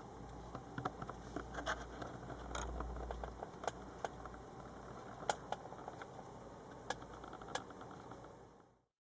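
Irregular light clicks and taps, a dozen or so, over a faint low hum; the sound fades out near the end.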